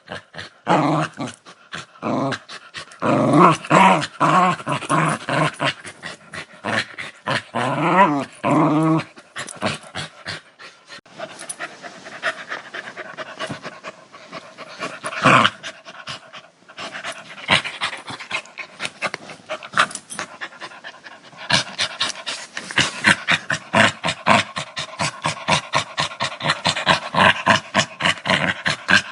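A dog growling in rough, pitched bursts, with rapid rhythmic pulses of about four a second in the last part.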